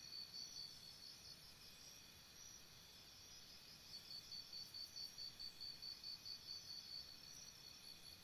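Faint insect chirping outdoors: a high pulsing trill at about three to four chirps a second that drops out for a couple of seconds mid-way and then resumes, over fainter steady high insect tones.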